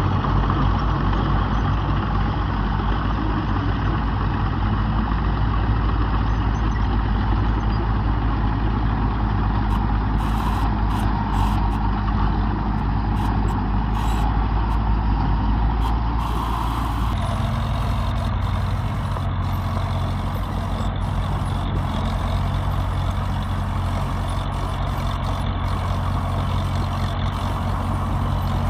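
Heavy diesel earthmoving machinery running steadily under work, its engine note shifting about seventeen seconds in.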